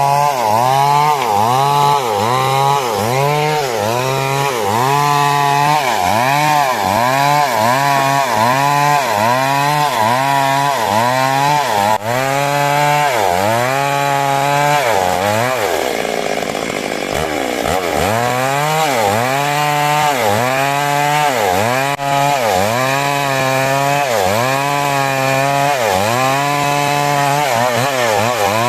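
Stihl MS 382 chainsaw cutting wood, its engine note dipping and recovering in a steady rhythm about once a second. Around the middle the rhythm briefly gives way to a smoother, steadier note before the rising and falling resumes.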